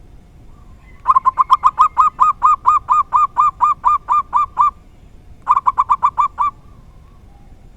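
Zebra dove (perkutut) cooing: a fast, loud run of short rolling coos, then after a brief pause a shorter run.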